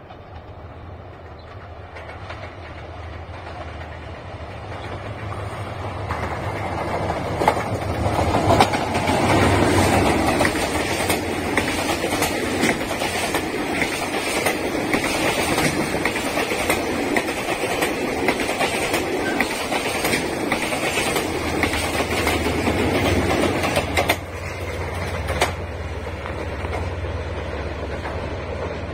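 A container freight train led by a JR Freight DF200 diesel-electric locomotive runs through the station. The diesel drone builds as the train approaches, peaks as the locomotive passes about eight seconds in, and is followed by a long run of wheels clattering over rail joints under the container wagons. About 24 seconds in the clatter drops off suddenly, leaving the lower drone of the second DF200 pushing at the rear.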